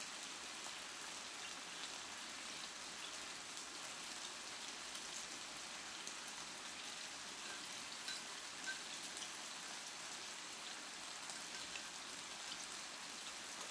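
Marinated pork belly sizzling steadily in a skillet: an even hiss flecked with faint crackles. A few light clicks come in the second half, from a spoon in a small ceramic bowl.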